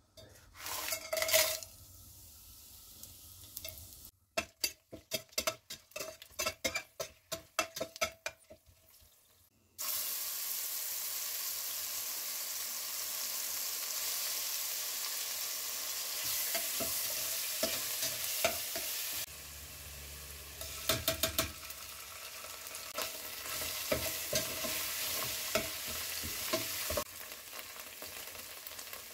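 Whole spices and a paste frying in hot oil in a stainless steel pot: a run of sharp clicks and taps early on, then a steady sizzle from about a third of the way in, with a metal spatula scraping and clinking against the pot as it is stirred.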